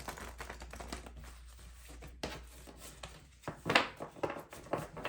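Tarot cards being handled on a table: light papery clicks and rustles, with a quick run of them about three and a half seconds in.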